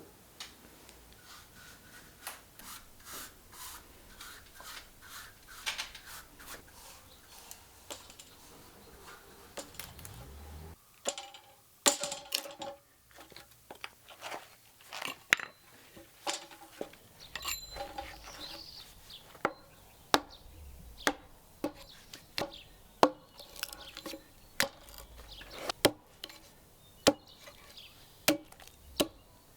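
Hand woodworking on boards: a run of sharp knocks and taps on wood, after a brief break about a third of the way in settling into strikes about once a second.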